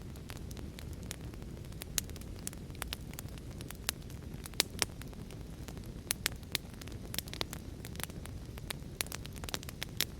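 Wood fire crackling, with frequent irregular sharp pops over a steady low rumble of heavy rain.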